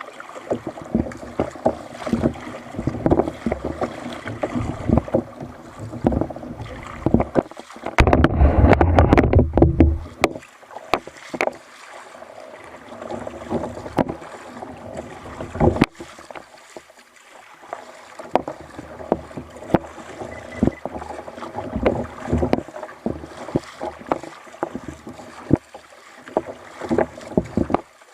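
Sea kayak on the water: water splashing and slapping against the hull, with many scattered knocks. About eight seconds in, a loud, deep rumbling burst lasts about two seconds.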